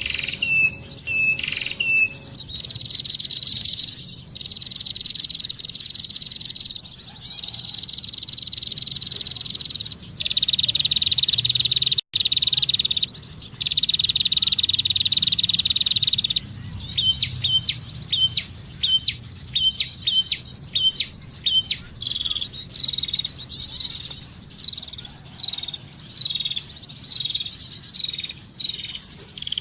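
Birdsong lure played from an MP3: a few short falling chirps, then long buzzy trills lasting a couple of seconds each, then from about halfway a quick run of sharp repeated chirps. It breaks off for an instant near the middle, like a cut in the recording.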